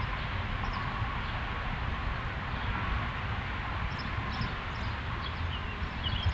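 Small songbirds chirping in short high notes, starting about two-thirds of the way in, over a steady hiss and low rumble of background noise.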